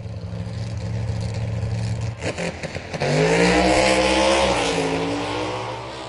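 Race-car engine running with a steady low drone, a brief rattle, then revving up about three seconds in, its pitch rising and then falling away before it fades near the end.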